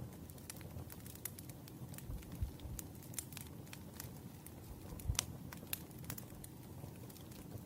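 Light, irregular clicks and taps of paper and stationery being handled on a desk while a letter is made, with a couple of louder knocks about two and five seconds in.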